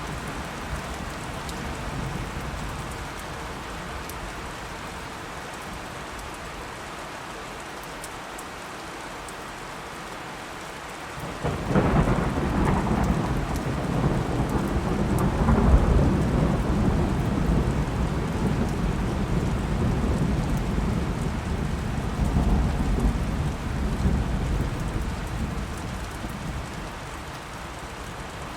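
Steady rain falling, with a thunderclap that breaks in sharply about a third of the way through and rumbles on for more than ten seconds before fading.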